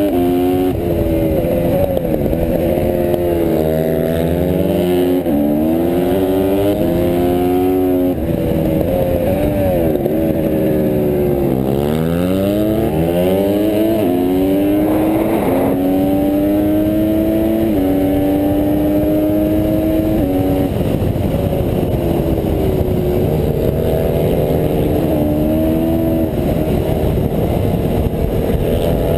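Honda CRF150R pit bike's single-cylinder four-stroke engine at race pace, revving up through the gears with the pitch stepping down at each shift. About eleven seconds in it drops low off the throttle, then climbs again.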